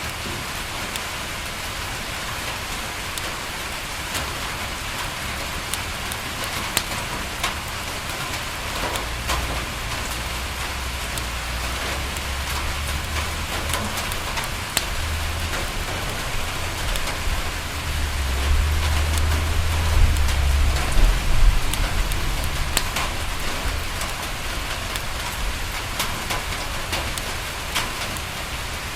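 Steady rain falling on a window, an even hiss with scattered sharp drop ticks. A low rumble swells from about nine seconds in, is loudest a little past the middle, then fades.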